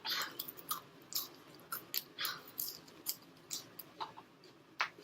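Close-up mouth sounds of a person chewing a mouthful of Hot Cheeto mac and cheese: irregular wet smacks and clicks, a couple each second, with a sharper smack near the end.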